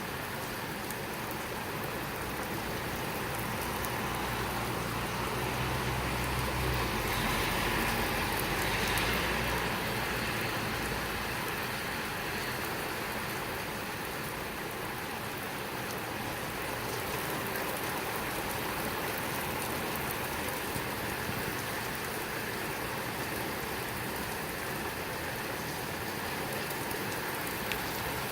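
Heavy rain falling steadily in a squall. The sound swells louder for several seconds, beginning about four seconds in, with a low rumble under it.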